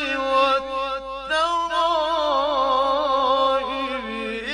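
A man's voice chanting Quran recitation in the melodic mujawwad style, drawing out long held, ornamented notes on the words of the verse 'yakhruju min bayni as-sulbi wa at-tara'ib'. About a second in a new note begins that wavers up and down, settling lower near the end as the next word starts.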